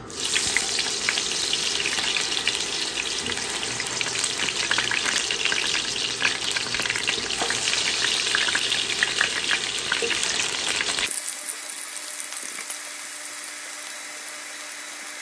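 Potato chunks shallow-frying in hot oil in a wok: loud sizzling with dense crackling that starts suddenly. About eleven seconds in it drops abruptly to a softer, steadier sizzle.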